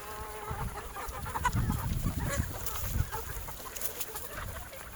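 Gamefowl clucking, with the tail of a rooster's call at the start. Scattered low thuds or rustles come in the middle.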